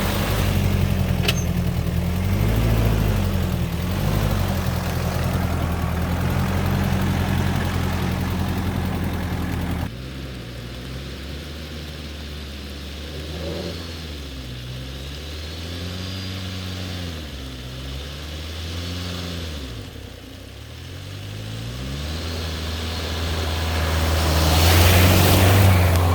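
2.5-litre VM Motori turbo diesel engine of a 1997 Jeep Cherokee XJ running at low revs off-road, its note rising and falling again and again as the throttle is worked. The sound drops suddenly in level about ten seconds in and grows louder again near the end.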